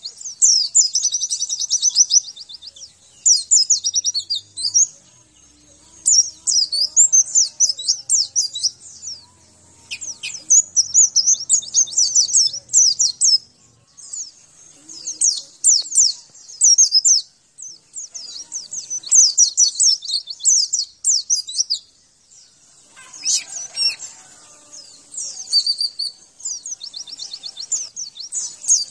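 Pleci (white-eye, Zosterops) singing its fast, high twittering song in repeated phrases of one to three seconds with short pauses between them; this is the recorded master song used to set caged white-eyes singing.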